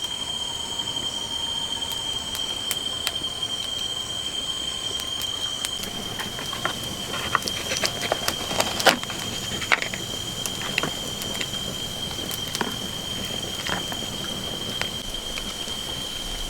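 A steady high-pitched drone holding one pitch, with scattered sharp clicks and taps, most of them in the middle.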